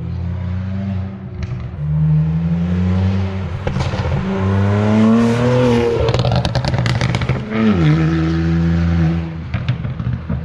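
BMW 335i's N54 twin-turbo inline-six through a VRSF straight-pipe race exhaust, revving up gradually, then popping and crackling as it comes off the throttle about six seconds in, before dropping back to a steady idle. The pops and burbles come from the custom MHD tune.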